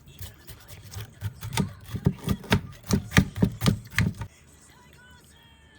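Knife chopping on a cutting board, about three strokes a second, stopping a little past four seconds in.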